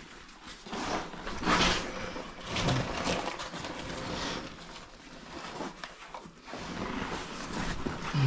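Hikers' footsteps scuffing and scraping on sandstone and grit, coming as irregular bursts of noise, some seconds apart.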